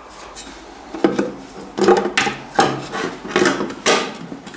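Rocker cover being worked down onto a tractor engine, with several irregular scrapes and knocks of metal on metal. It binds because the new oil line underneath sits too high for the cover to seat.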